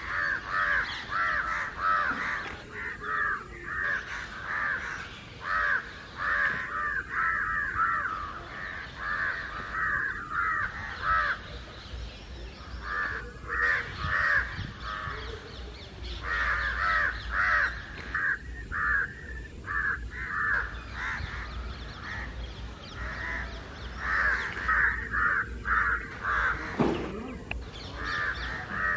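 A flock of house crows and jungle crows cawing constantly, many harsh calls overlapping in quick runs with brief lulls. The uploader takes it for the crows ganging up and calling against an intruder.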